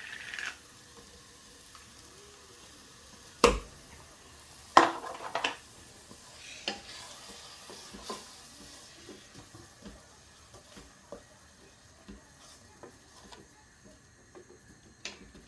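Spoon stirring a block of frozen stock into a hot pan of fried onions and spices, knocking sharply against the pan twice, then lighter scattered clicks over a faint sizzle.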